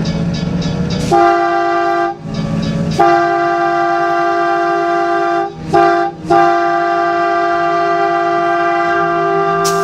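Train whistle sounding a chord of several notes in four blasts: a short-long pair, a brief third blast and a long fourth blast, over the train running.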